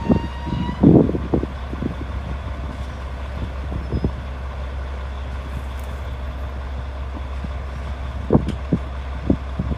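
Heavy diesel machinery running steadily with a low drone, with a few sharp knocks about a second in and again near the end.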